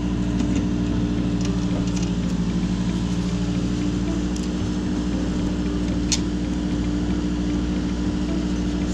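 An engine idling steadily, with a few faint clicks and taps of hand work on top.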